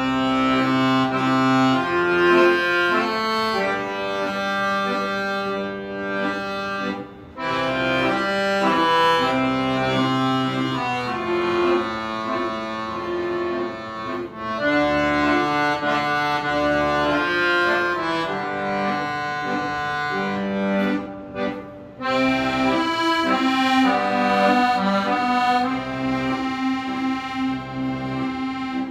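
Accordion playing a melody over sustained bass notes, with short breaks between phrases about seven and twenty-two seconds in.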